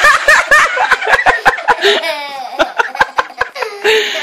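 People laughing loudly in rapid bursts, hardest in the first couple of seconds and then easing off.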